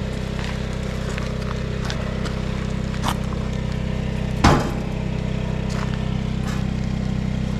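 Portable generator running steadily with a low, even hum. Over it come a few light clicks and one louder knock about four and a half seconds in.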